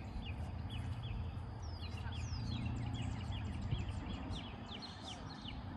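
Small birds chirping, a quick run of short falling notes repeated many times, with a couple of longer falling whistles about two seconds in, over a steady low rumble.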